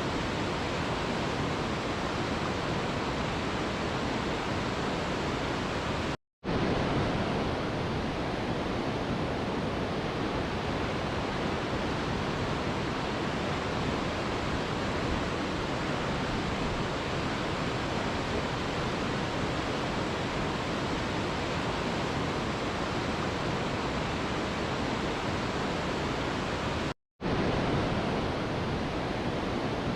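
Steady, even rushing of a waterfall, like white noise. It cuts out completely twice for a split second, about six seconds in and again near the end, then comes straight back.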